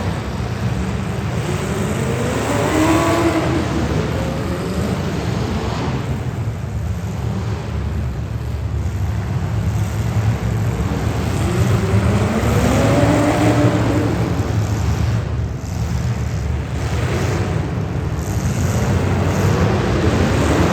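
Street stock race car engines running on track, a constant drone with engine pitch rising and falling as cars accelerate and pass, about three times.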